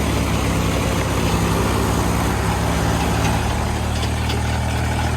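Tractor diesel engine running steadily with a deep, even note.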